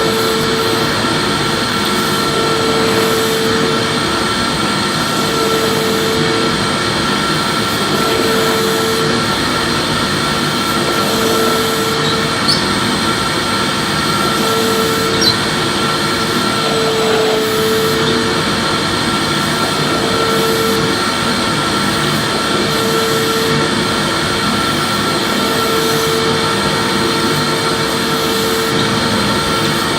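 Vacuum cleaner running without a break: a loud, steady rushing hum. A tone in the hum comes and goes about every two and a half seconds, as when the nozzle is pushed back and forth over a floor.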